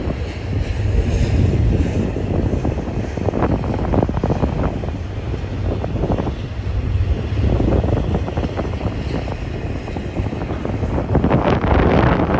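BNSF double-stack container train running past, mixed with strong wind buffeting the microphone in gusts that swell near the end.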